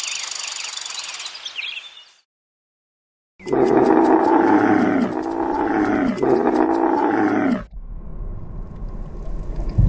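A large animal calling loudly, three long calls in a row, each rising and falling in pitch, after a brief silence.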